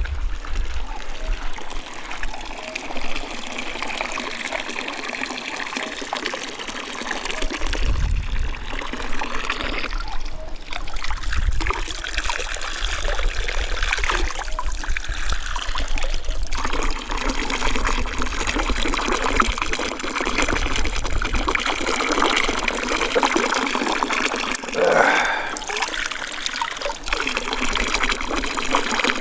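Running water trickling and splashing steadily close by, with a brief rising sound near the end.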